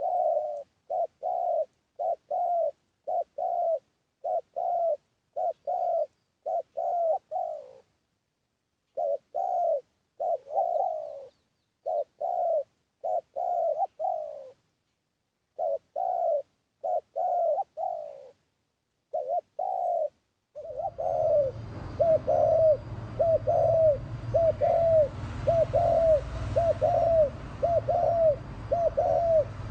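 Spotted dove cooing in repeated phrases of short coos with brief pauses between them, a decoy call meant to provoke wild males. About two-thirds of the way through, a different recording cuts in: a steady low hum and hiss behind faster, evenly spaced coos.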